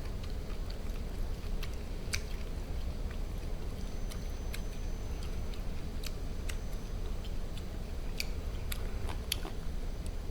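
A person chewing barbecued duck meat close to the microphone: irregular small wet clicks and smacks of the mouth, over a steady low hum.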